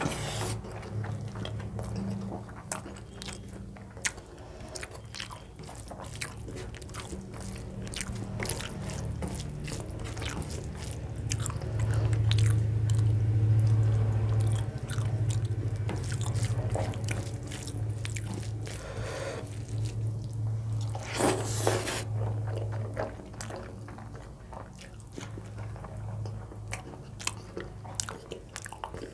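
Close-up mouth sounds of a person chewing and biting a vegetarian meal of dal and fried vegetables, many short wet clicks. Under it a low hum comes and goes, and a short noisy rasp stands out about three-quarters of the way through.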